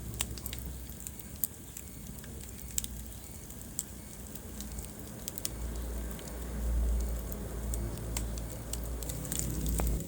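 Wood fire burning in a fireplace, crackling with scattered sharp pops over a low rumble of flame that grows louder about six seconds in.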